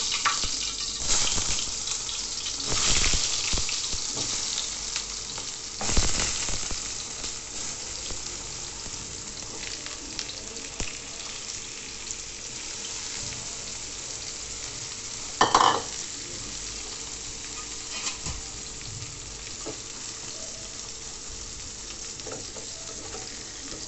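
Pointed gourd (potol) pieces coated in turmeric and salt sizzling in hot soybean oil, the hiss surging louder several times in the first few seconds as pieces are dropped in, then settling into a steady frying sizzle. A short, sharp sound stands out about halfway through.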